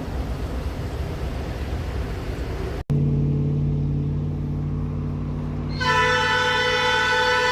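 An even rumbling noise, then after an abrupt break about three seconds in, a locomotive's diesel engine running steadily. About six seconds in, the locomotive's multi-chime air horn starts sounding, a steady chord held without a break.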